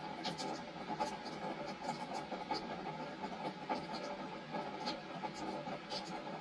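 Rain falling on a wooden deck: a steady wash of rain with many separate drops ticking irregularly on the boards.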